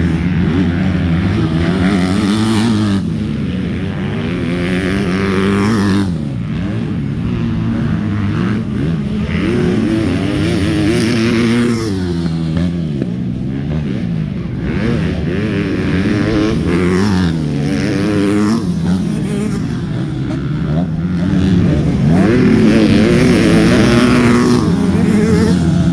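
Several motocross bikes racing past, their engines revving up and falling back again and again through the gears as they take the track. The engines get louder near the end.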